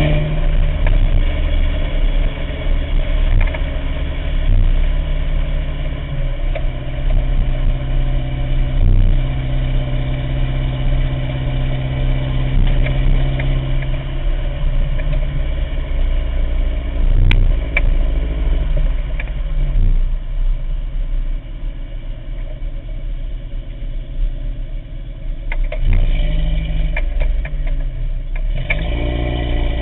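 Toyota 22RE four-cylinder engine in a 1987 4Runner running rough with a misfire, its speed shifting and rising near the end. The misfire comes from spark plugs fouled by burning coolant through a failed head gasket and cracked cylinder head.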